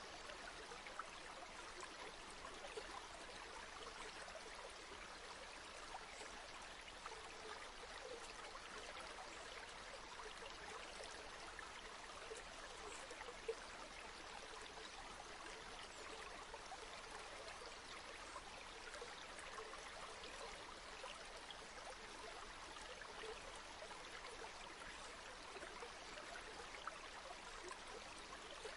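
River water flowing: a faint, steady rush with small splashes scattered through it.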